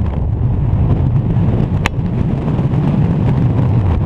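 Strong gusting wind buffeting the camera's microphone: a loud, steady low rumble. One short click sounds a little under two seconds in.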